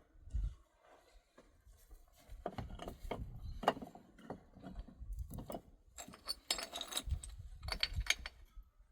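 Irregular knocks, clinks and scraping of hard objects being handled, with the busiest clattering in the middle and again about six to eight seconds in.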